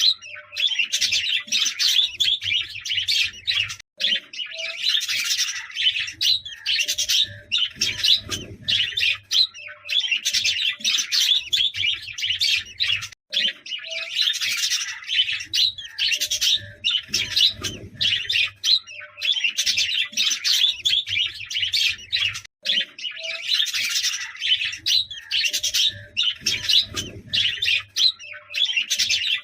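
A flock of budgerigars chattering and chirping continuously, a dense mix of many overlapping warbles and tweets.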